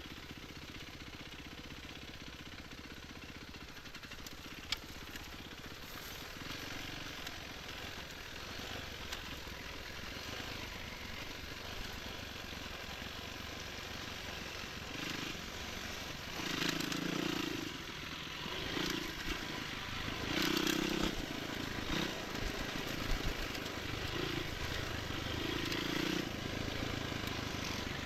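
Enduro motorcycle engine running as the bike is ridden, with repeated louder surges of throttle from about halfway through.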